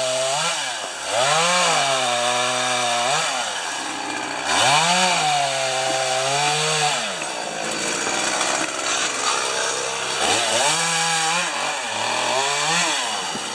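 Chainsaw engine running, revved up and dropping back several times, with a rougher stretch without a clear pitch about two thirds of the way through.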